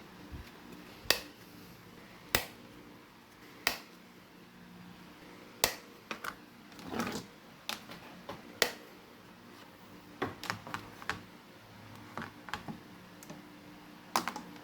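Sharp clicks and taps of small hard parts being handled over a faint steady hum. Three clicks about a second and a bit apart at first, then a brief rustle and more scattered clicks.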